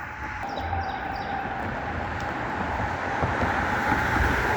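A passing vehicle: a steady rumble that grows gradually louder, with a steady whine. A few bird chirps are heard near the start.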